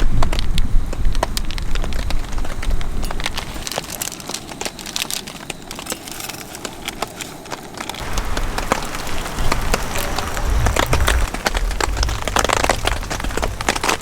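Rain pattering as scattered drops on a tarp, with gusts of wind buffeting the microphone as a low rumble that drops away about four seconds in and returns about eight seconds in.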